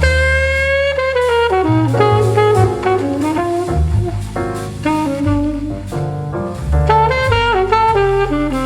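Big-band style jazz music with a saxophone melody over walking bass and drums.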